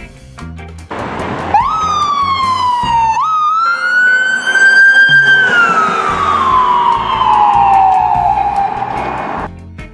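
Emergency vehicle siren wailing over background music. About a second in it sweeps up, sags, sweeps up again to its highest pitch, then winds slowly down before cutting off near the end.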